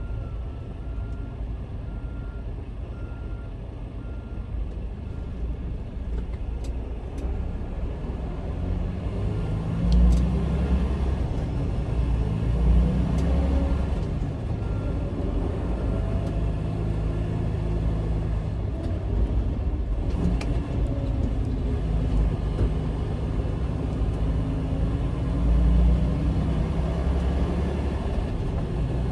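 Semi-truck's diesel engine running, heard from inside the cab over a low steady rumble, the engine note swelling as it pulls harder about a third of the way in and again near the end. A faint, evenly broken beeping sounds through the first half.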